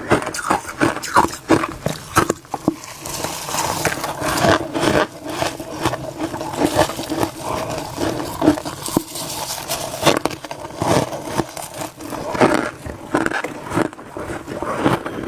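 Crunchy humidifier frost being scraped up with a spoon and chewed fast: a dense, irregular run of crisp crunches and scrapes.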